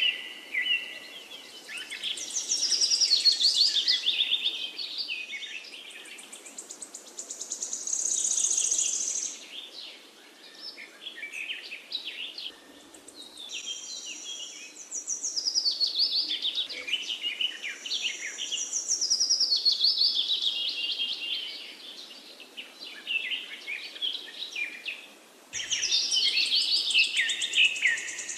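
Songbirds chirping and singing, a dense mix of quick high chirps and trills that swells and fades in waves, over a faint steady hiss. A louder stretch of song starts abruptly near the end.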